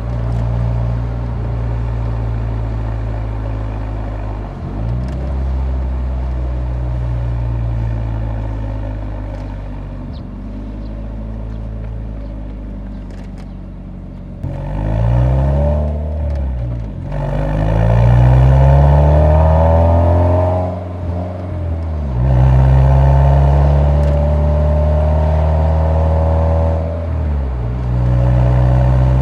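Nissan 180SX's exhaust and muffler note recorded close up while driving. The engine first runs at steady, easing revs. From about halfway in the revs climb and fall back several times as it accelerates.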